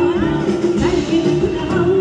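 Live Kurdish folk music from a concert stage: a melody with sliding pitches over a steady held drone.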